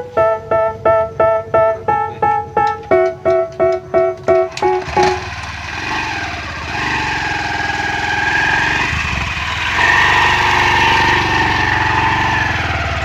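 A short intro tune of quick, evenly repeated keyboard-like notes cuts off about five seconds in. It is followed by the steady, rough running of a small diesel water-pump engine.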